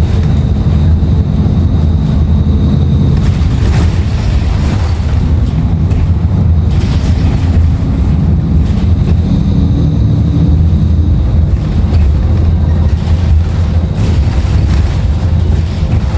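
Interior sound of a 2016 Nova Bus LFS under way: its Cummins ISL9 diesel running steadily, with road noise, and a faint high whine for the first few seconds.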